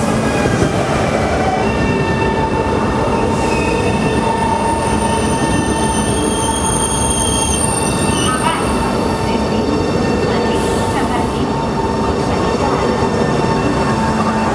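Train running on rails with a loud, steady rumble, and its wheels squealing in several high held tones over the noise.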